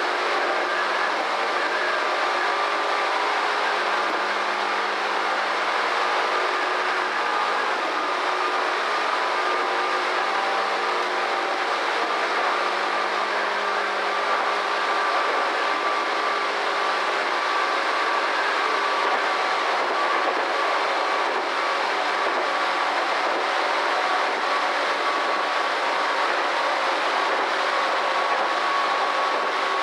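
Electric commuter train of the Tobu Skytree Line running at speed, heard from on board at the front: steady noise of wheels on rail with a faint steady whine.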